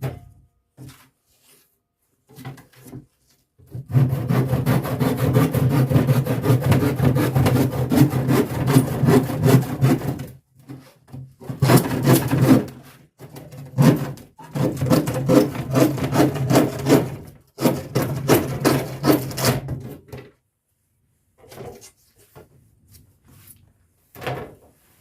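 A saw cutting through a sheet of plywood in four runs of rapid strokes with short breaks between them. A single knock comes at the start and small knocks follow near the end.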